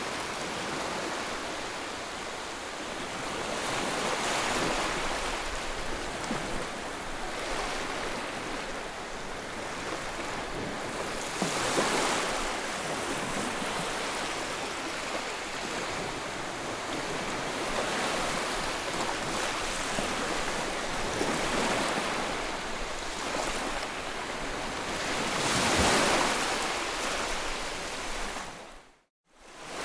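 Ocean waves washing onto a shore: a steady surf hiss that swells and ebbs every several seconds. Near the end the sound fades out to silence for a moment and then comes back.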